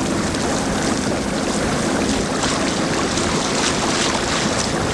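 Boat motor running steadily under way, with water rushing past the hull and wind buffeting the microphone.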